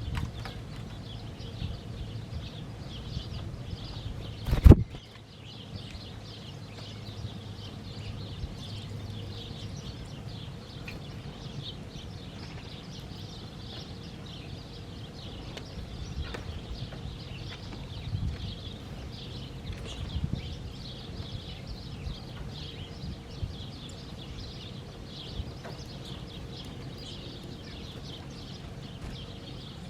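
Many small birds chirping continuously in a dense chorus of short high calls, with one sharp loud knock about five seconds in.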